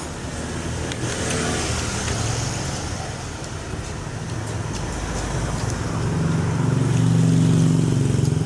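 A road vehicle's engine running, growing louder to a peak near the end, as if it passes close by, with tyre and road hiss.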